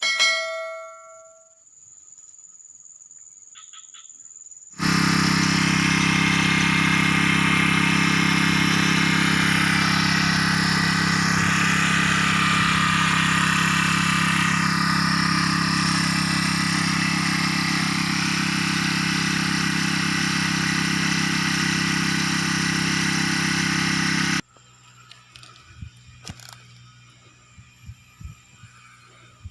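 Small four-stroke engine of a mini backpack grass sprayer running steadily at high speed with a hissing haze over it, cutting in abruptly about five seconds in and stopping abruptly near the end. A short ringing tone sounds at the very start.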